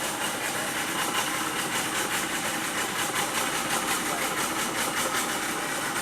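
Tour boat's outboard motor idling steadily with an even hiss, the boat pulled over and stopped.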